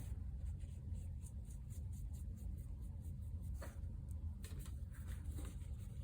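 Faint scratching and light taps of a watercolour paintbrush worked around the edges of a paper ticket, over a low steady hum.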